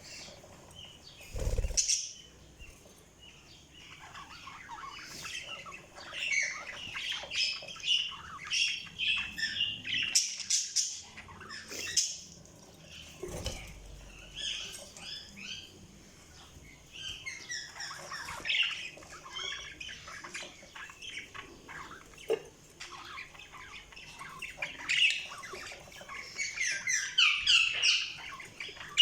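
Budgies chirping and chattering in bouts of rapid, short high calls, with quieter gaps between the bouts. A brief low thump comes about a second and a half in.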